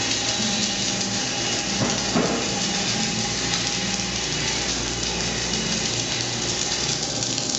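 Daf DF1000 submerged arc welding set running while it builds up a guide wheel: a steady hiss with a low hum that comes and goes.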